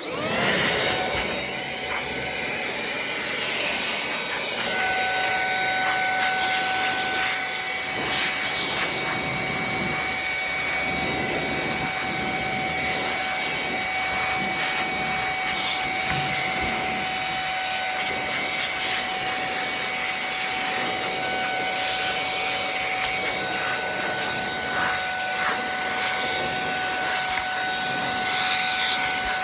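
Xech vacuum cleaner running steadily: rushing air with a high motor whine made of several held tones, one of which settles in about five seconds in.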